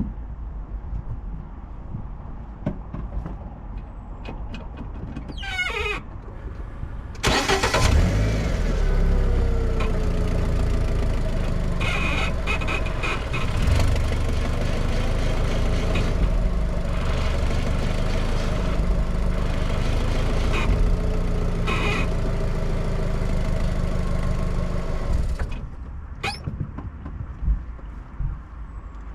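A vehicle engine is started about seven seconds in, runs steadily for about eighteen seconds, then is switched off abruptly.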